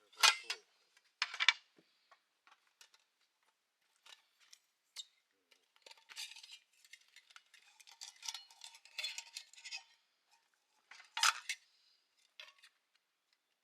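Metal utensils clinking and scraping against cookware: a few sharp clinks, with a longer spell of scraping and clattering in the middle.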